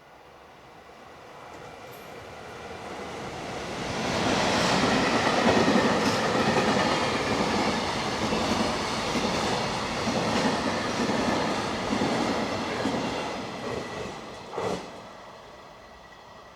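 A freight train passing: it rumbles in over the first few seconds, then the wagons clatter past loudly for about nine seconds, the wheels clacking over the rail joints, before it fades away. A single sharp clank near the end.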